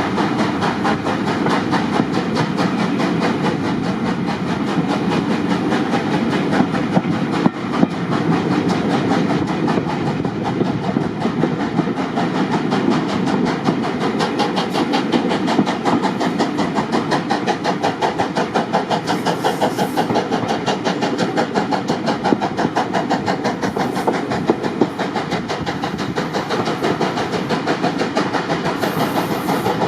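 Train on the Bluebell heritage railway running at steady speed: a fast, even rhythm of beats that holds on without a break.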